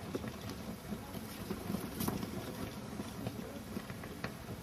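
Faint rustling with scattered light clicks and taps.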